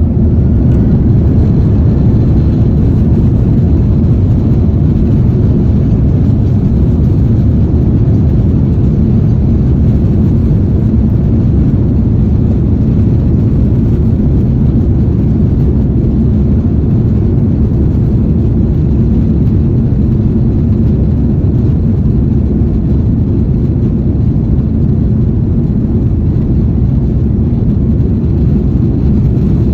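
Jet airliner's engines at takeoff power, heard from inside the passenger cabin: a loud, steady, deep roar and rumble that swells up just at the start and then holds.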